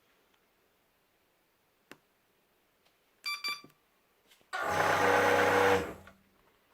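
Electric automatic cigarette-making machine giving two short beeps, then its motor running loudly and steadily for about a second and a half before stopping.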